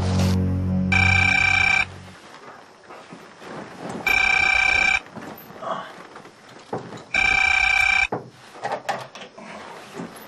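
Telephone ringing three times, each ring about a second long and about three seconds apart. In the first two seconds a low sustained music chord fades out.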